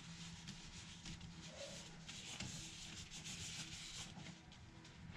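Faint rubbing and scuffing of gloved hands handling the resin bottle, busiest around the middle, over a low steady hum.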